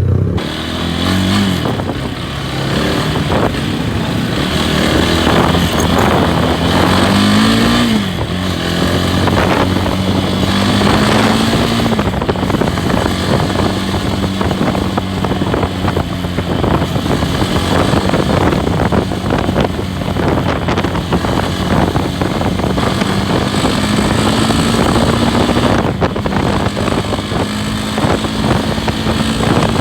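Loncin SX2 250 single-cylinder motorcycle engine under way. It revs up and drops back a few times in the first eight seconds or so, as at gear changes, then holds a steady cruise with a slow rise in pitch.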